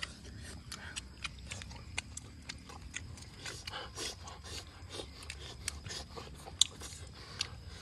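A person chewing and biting into grilled duck, a steady scatter of short smacking and crunching clicks, with one sharper click about six and a half seconds in.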